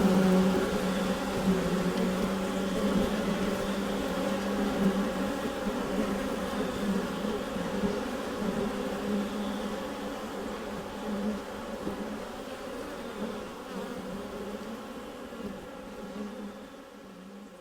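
Dense, steady buzzing of a crowd of honeybees inside a beehive, a low hum centred around 200 Hz, gradually fading out toward the end.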